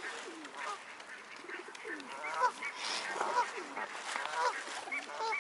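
A flock of waterfowl calling, many short honks overlapping and repeating close by.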